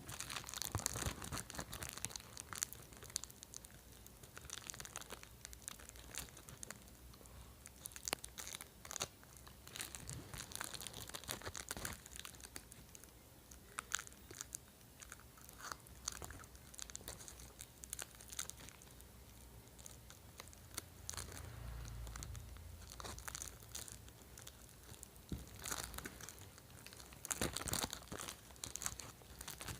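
Plastic food packaging being crumpled and crushed by hand: a steady run of irregular crinkles and crunches, with a low bump about two-thirds of the way in.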